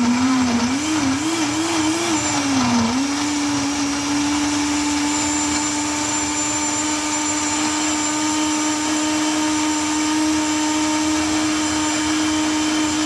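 Electric blender running at speed, mixing ice blocks, strawberries, ice cream and milk into a milkshake. Its motor pitch wavers up and down for about the first three seconds as the blades work through the ice, then settles into a steady hum.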